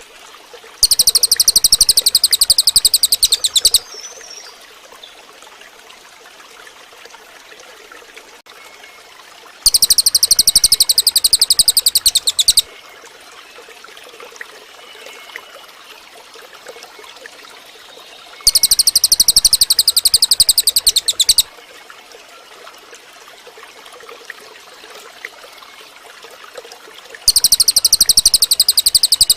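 Cililin bird song: a very fast, high-pitched trill of even, rapid pulses lasting about three seconds. It repeats four times, about nine seconds apart, each phrase alike, over a faint steady background.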